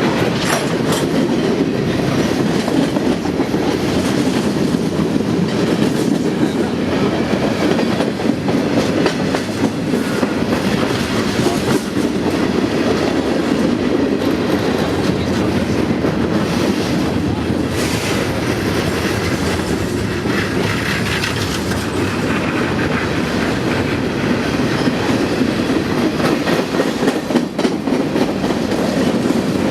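A train rolling past on the track: steady, loud noise of steel wheels on rail with scattered clicks, running through the whole stretch without a break.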